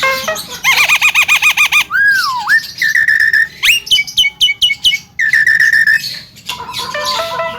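Young Javan myna singing a varied string of mimicked phrases: a wavering trill, a falling whistle, short held whistled notes, and a quick run of downward-sweeping notes.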